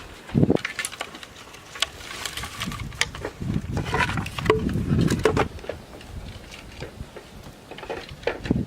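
Irregular knocks, clicks and rustling, with a thud near the start and a louder stretch of low, rough noise in the middle.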